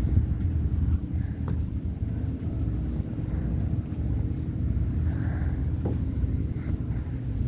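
Boat's engine running with a steady low hum, with a couple of faint ticks about a second and a half in and near six seconds.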